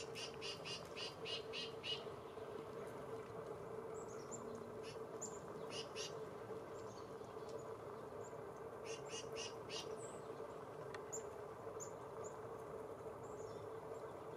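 Small songbirds calling: a quick run of about seven repeated high notes in the first two seconds, then scattered short high chirps. A faint steady hum runs underneath.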